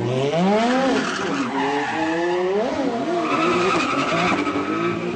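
Supercar engine revving: its pitch climbs and drops in two sweeps over the first three seconds, then holds a steadier, higher note until near the end.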